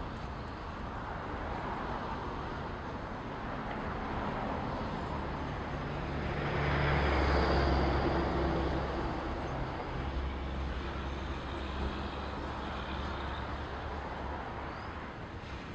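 Double-stack intermodal freight cars rolling past on the rails close by. A steady noise swells to its loudest about halfway through, with a low hum underneath, then eases back.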